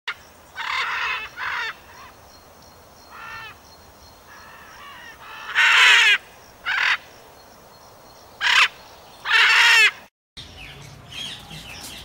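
Harsh bird calls, squawks or caws, about eight of them at irregular intervals, each under a second long. The sound cuts out suddenly near the end.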